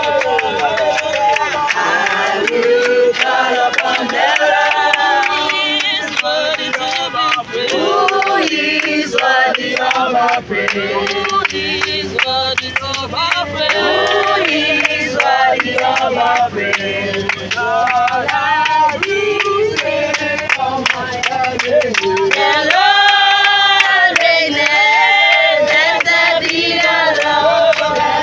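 A group of voices singing together, choir-like, without a break.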